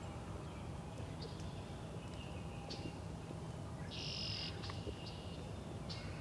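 Wild songbirds calling here and there in short, high chirps, with a brief buzzy trill about four seconds in, over a faint steady low outdoor rumble.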